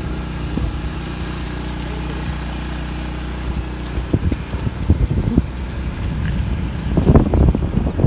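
Honda C70-based engine bored out to 180cc, running at a steady speed. Wind buffets the microphone in rough bursts in the second half.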